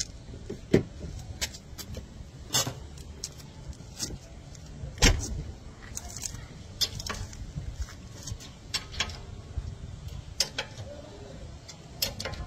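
Irregular metallic clicks, clinks and knocks of hand tools and metal parts being handled during car brake work, with a louder knock about a second in and another about five seconds in.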